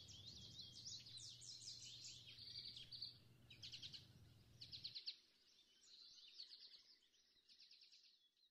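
Faint songbirds singing outdoors: repeated quick high chirps and trills, fading toward the end. Underneath, a steady low hum cuts off suddenly about five seconds in.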